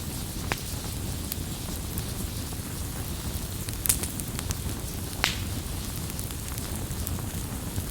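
Campfire burning with a low steady rumble and scattered sharp wood crackles and pops, the loudest about four and five seconds in.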